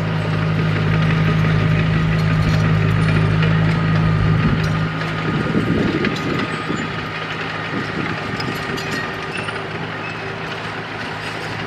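Diesel engine of a crawler bulldozer running steadily under work. Its low note drops away about five seconds in, with scattered mechanical clanks and clicks throughout.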